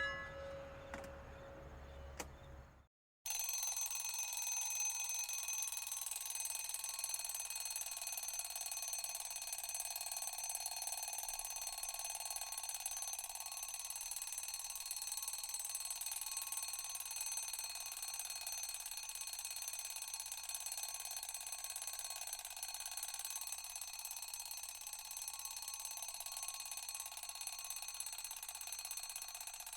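A previous sound effect fades out, then after a moment of silence about three seconds in, an alarm starts ringing continuously. It is a dense, steady high ringing that does not let up.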